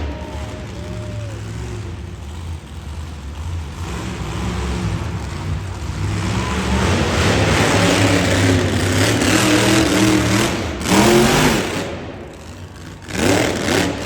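Monster truck engine revving hard, pitch rising and falling. It surges loudest about eleven seconds in, with another sharp surge near the end.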